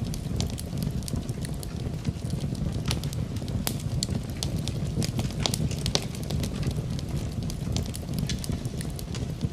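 Fire burning in a fireplace, crackling and popping: many sharp, irregular snaps over a steady low rumble of flames.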